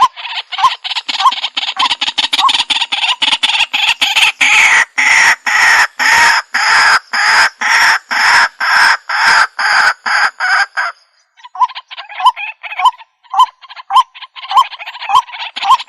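Waterhen (jal murgi) calling: a long run of harsh, rapid croaking notes, about three a second, with short hooked notes mixed in. The calling pauses briefly about eleven seconds in, then picks up again.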